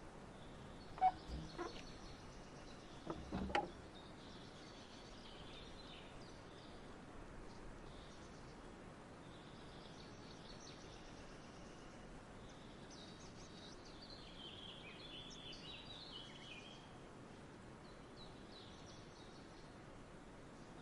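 Small birds chirping over a steady outdoor hiss, with a few sharp knocks about a second in and again near three and a half seconds, the knocks being the loudest sounds.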